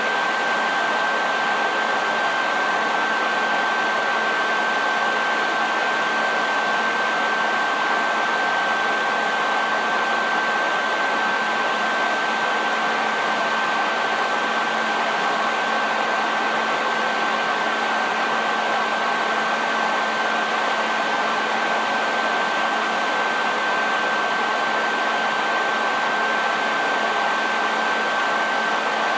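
Hair dryer running steadily: a constant blowing rush with a steady high whine from the motor and fan and a faint low hum underneath.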